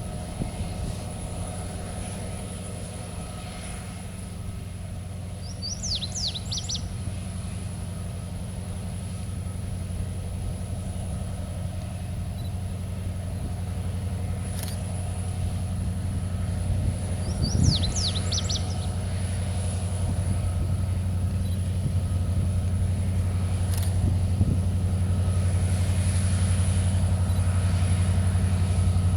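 A bird singing the same short, quick phrase three times, about eleven seconds apart, over a steady low engine rumble that grows gradually louder.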